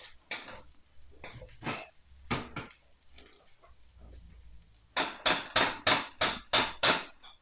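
Cooking utensil stirring noodles in a wok: a few scattered scraping strokes, then a quicker, louder run of about seven, roughly three a second, near the end.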